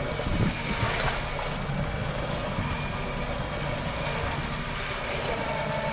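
Steady wind and sea noise around a small fishing boat at sea, with wind buffeting the microphone and a faint steady tone underneath.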